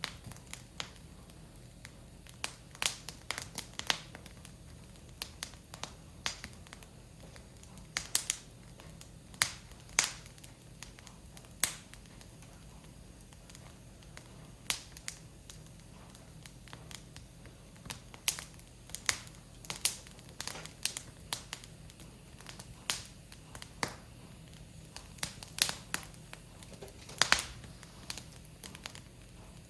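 Firewood burning, crackling with irregular sharp pops, several close together at times.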